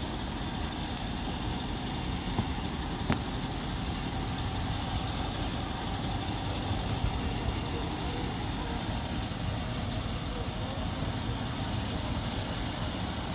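Steady vehicle noise, a low rumble of running engines or passing traffic, with a single sharp click about three seconds in.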